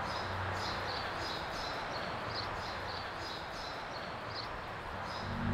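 Outdoor ambience: a steady background wash with a small bird chirping short, high notes about twice a second. Low, sustained ambient music swells in near the end.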